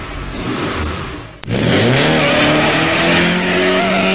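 Turbocharged Mitsubishi Lancer Evolution X running hard. A broad rush of engine and road noise is followed, about a second and a half in, by a sharp click, and then the engine note climbs and holds steady.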